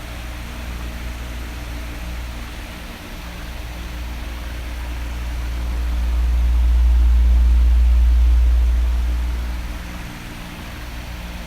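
Electric oscillating fan blowing with a steady airy hiss. A low rumble of air swells from about five seconds in and fades again near the end as the fan's airflow sweeps across.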